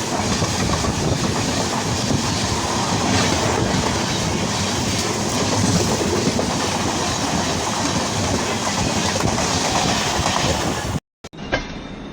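A train passing close alongside: a loud, steady rush of wheel and rail noise with clickety-clack over the rail joints. It cuts off abruptly about eleven seconds in, leaving quieter rail noise with a faint high whine.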